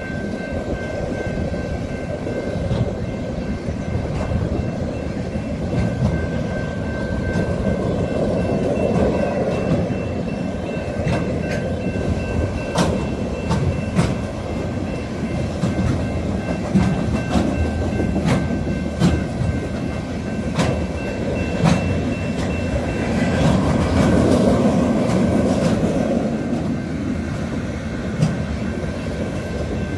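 Freight train of empty intermodal well cars rolling steadily past: a continuous rumble of steel wheels on rail, broken by irregular sharp clicks as the wheels pass over rail joints.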